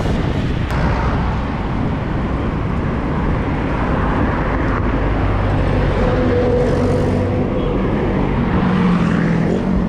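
Road traffic with vehicle engines running, heard over a heavy low rush of wind noise. Steady engine tones come in about six seconds in.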